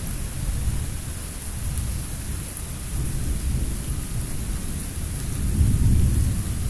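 Thunder rumbling low and continuously, swelling louder about five and a half seconds in, with rain falling throughout.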